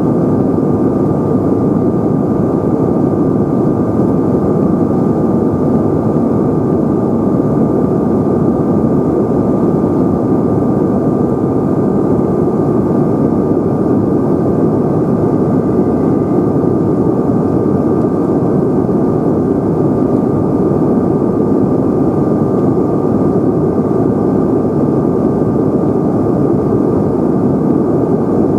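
Steady cabin roar of a Bombardier CRJ-900's rear-mounted General Electric CF34 turbofan engines, heard from inside the passenger cabin, with a constant high whine running over the rushing noise.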